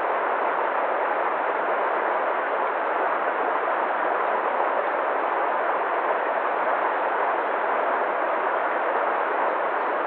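Waterfall: an unbroken, steady rush of falling water.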